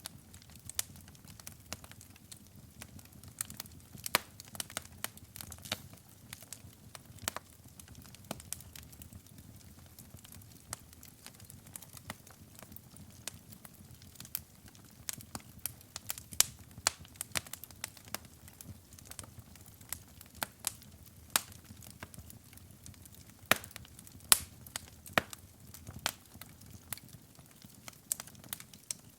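Wood fire crackling: irregular sharp pops and snaps, a few of them louder, over a low, steady rumble of burning logs.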